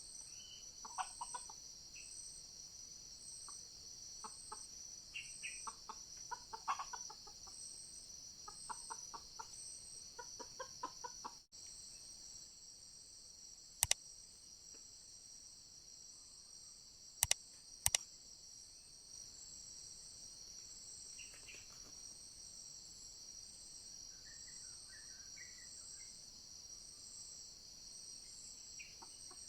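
Red junglefowl clucking in quick runs of short calls over a steady high drone of forest insects. The clucking stops about a third of the way in, and later three sharp clicks come, the last two close together.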